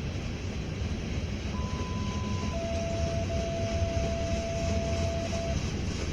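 CSX freight train rolling past: a steady low rumble of wheels on rail. A thin steady tone comes in about a second and a half in, steps lower about a second later and stops near the end.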